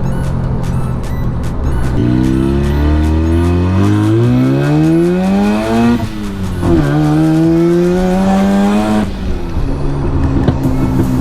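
Turbocharged 13B rotary engine of a Mazda RX-7 pulling hard through a gear, its note rising steadily. It dips briefly at a shift about six seconds in, climbs again, and falls back near the nine-second mark. The exhaust cutout is closed, so this is the car's quieter exhaust setting.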